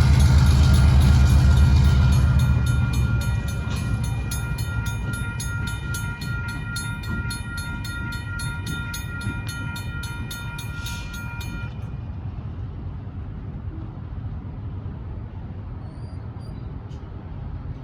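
Diesel locomotive rumbling loudly as it passes, then fading as the train moves away. A railroad crossing bell rings with evenly spaced strokes and stops abruptly about twelve seconds in.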